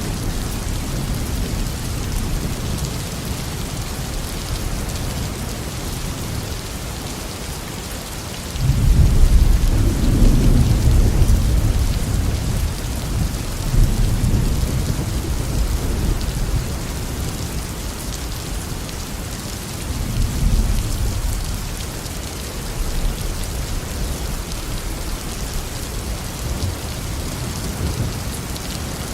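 Steady tropical rain pouring on a garden, with rolling thunder: a low rumble breaks in suddenly about a third of the way through and swells again several times before fading.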